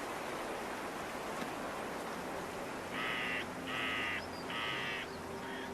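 A bird calling: three harsh calls about three-quarters of a second apart starting about halfway through, then fainter calls near the end, over a steady hiss.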